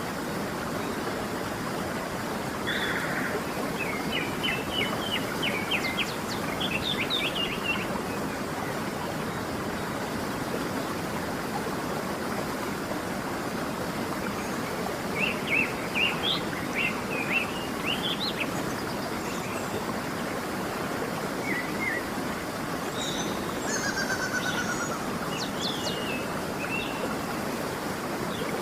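A waterfall rushing steadily, with birds singing quick chirping phrases over it in three bouts.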